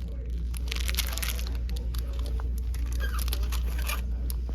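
Irregular crinkling and crunching noises, many short clicks and crackles, over a steady low rumble.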